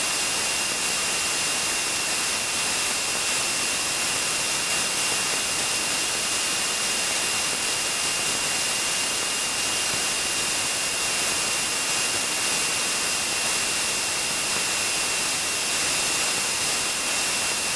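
Steady hiss with a thin, high, constant whine, the open cockpit intercom feed of a light twin-engine aircraft with no one talking.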